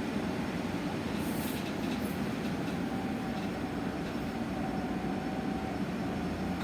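Cabin noise of a moving electric bus: a steady rumble of road and tyres, with a faint steady electric whine that fades out near the end.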